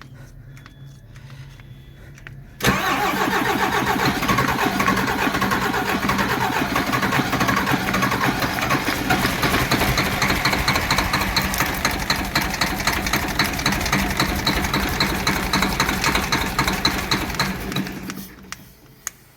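DAF 105 truck's straight-six diesel engine, valve cover off, being started: about three seconds in it suddenly turns over loud and fast with a rhythmic clatter, runs on steadily for about fifteen seconds, then winds down and stops near the end.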